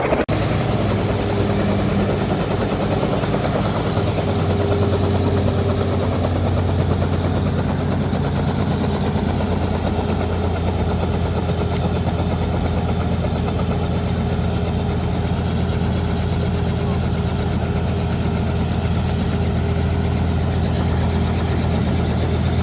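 Helicopter engine and rotor running steadily, a constant loud drone with a low hum.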